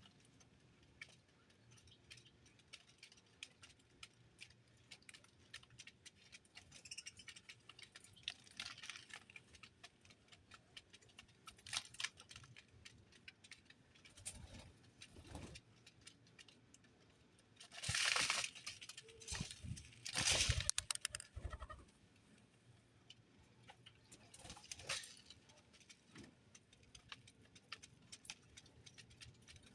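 Small birds moving about and pecking: many light clicks and scratches throughout, with a few louder rustling bursts, the biggest about two-thirds of the way through.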